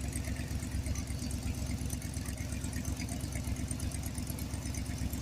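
Car engine idling or running at low speed, a steady, fast, even low pulse with no change in pitch.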